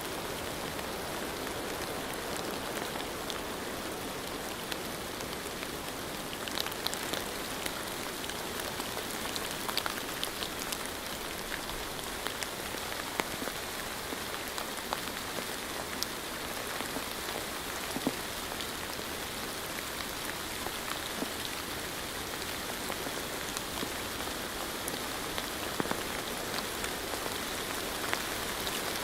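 Steady rain falling, with scattered individual drops tapping louder now and then.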